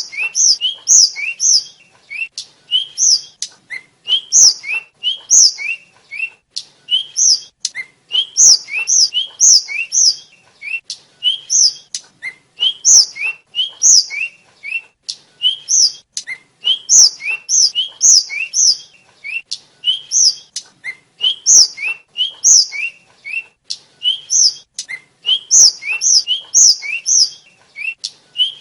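A tledekan (Javanese name for a blue flycatcher) singing continuously in quick phrases of short, sharp, downslurred whistles, high-pitched and without a break.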